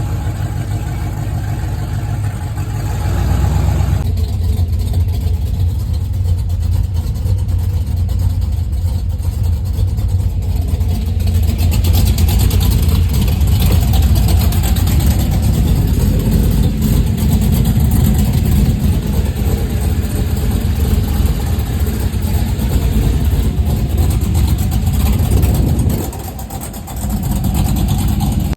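Rebuilt V8 engine of a cat-eye Chevy Silverado running with a deep, loud exhaust rumble. It gets louder about four seconds in and dips briefly near the end.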